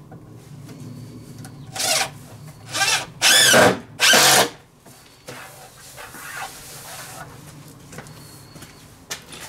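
Power drill run in four short bursts, about 2 to 4.5 seconds in, the last two the longest and loudest.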